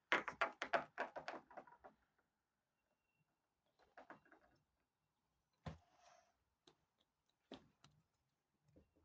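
Small plastic toy figures being handled and set in place: a quick run of light clicks and taps, then a few single knocks.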